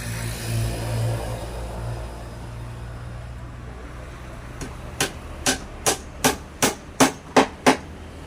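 A low, steady hum in the first couple of seconds, then a run of about eight sharp hammer blows on wood, two to three a second, in the second half.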